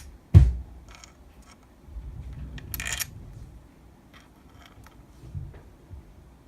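Metal engine parts handled on a workbench during motorcycle crankcase assembly: a heavy thud about half a second in, light metallic clicks, and a short noisy burst near three seconds.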